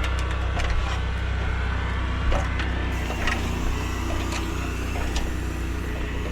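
Steady engine hum of a soft-wash spray rig, with a hiss of spraying and a few sharp clicks.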